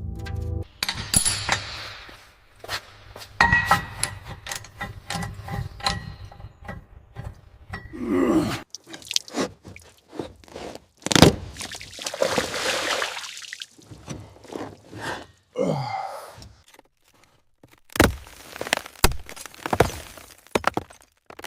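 Irregular knocks, scrapes and crunching, with a few longer scraping swells and short quiet gaps between them.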